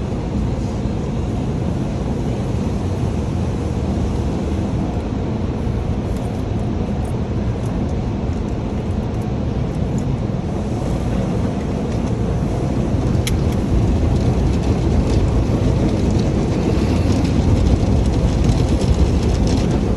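Automatic car wash running around the car, heard from inside the cabin: a steady rush of water spray and machinery that grows louder about two-thirds of the way in, with a single sharp click just before.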